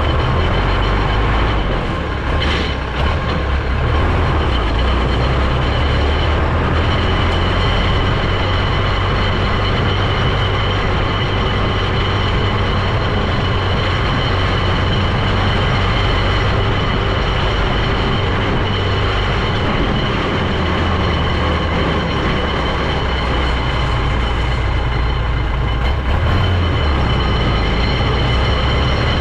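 Heavy vehicle's engine running steadily under way, a deep constant rumble with a steady high whine over it.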